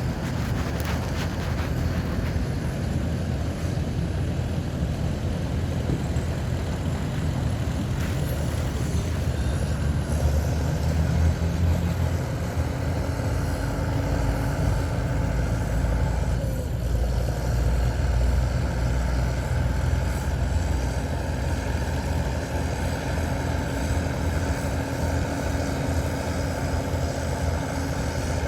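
Heavy diesel engines of earthmoving machines, a bulldozer and dump trucks, running steadily under load with a deep rumble. The engine note dips briefly about halfway through.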